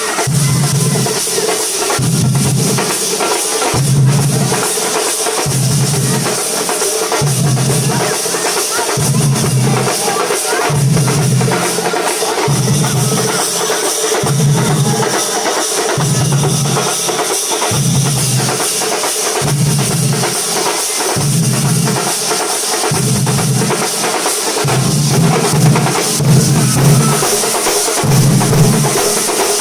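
Thambolam percussion ensemble drumming loudly: deep bass-drum strokes fall about once a second under dense, rolling snare drumming that never stops.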